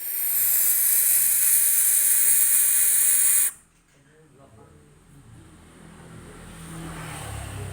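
Barn owl chick giving one long, loud rasping hiss-screech, a threat display, that cuts off abruptly after about three and a half seconds. A much quieter low rumble follows.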